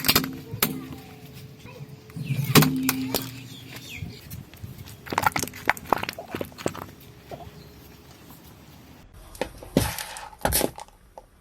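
Objects crunching and cracking under a car tyre as it rolls over them: a run of sharp cracks and snaps, loudest about two and a half seconds in, with more clustered a couple of seconds later and two last snaps near the end.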